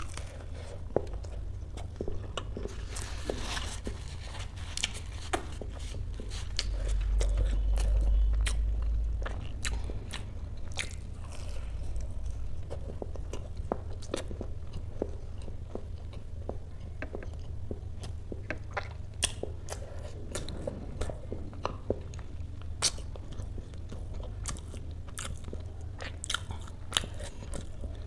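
Close-miked biting and chewing of a crispy fried kachori with ghugni: crunches and wet mouth clicks throughout. A low rumble swells for a couple of seconds about a quarter of the way in.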